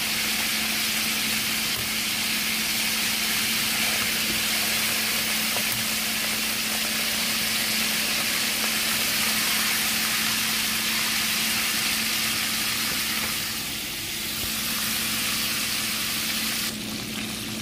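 Breaded whiting fillets deep-frying in a pot of hot oil: a steady, dense sizzle, with a steady low hum underneath. The sizzle dips briefly about fourteen seconds in and drops a little near the end.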